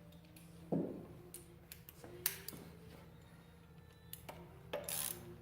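Scattered light metallic clicks and ticks of a wrench working a bolt as it is threaded in to start it, with a dull knock about a second in and a short stretch of scraping turns near the end.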